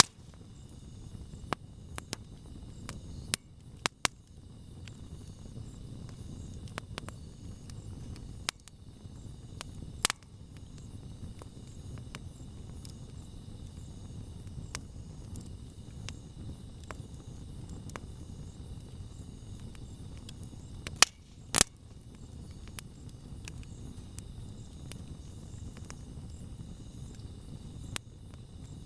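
Wood campfire burning with a steady low hiss of flames and scattered sharp pops and snaps from the wood, the loudest two close together about 21 seconds in. Insects chirp steadily in the background.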